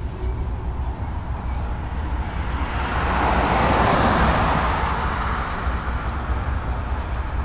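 Freight train rolling past with a steady low rumble, and a broad rush of noise that builds to a peak about four seconds in and then fades, as of something passing close by.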